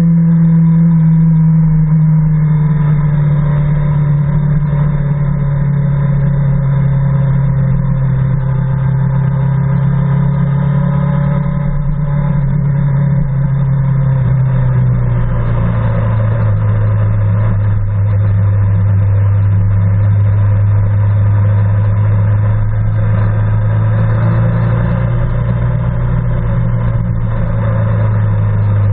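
BMW S 1000 RR's inline-four engine running steadily at low revs while the bike slows, its note sinking gradually and dropping to a lower pitch about fifteen seconds in, then lifting slightly near the end.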